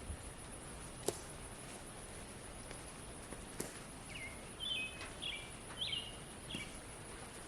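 Outdoor pasture ambience with a steady high insect buzz. There are two sharp clicks in the first half, then a bird gives a short run of about five quick chirps past the middle.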